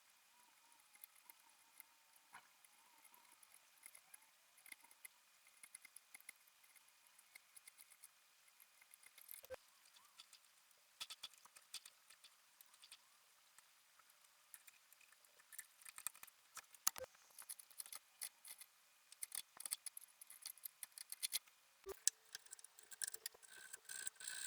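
Faint, irregular small clicks, taps and light scratches of hand work with wood and tools, with a few sharper taps. They grow busier over the last ten seconds.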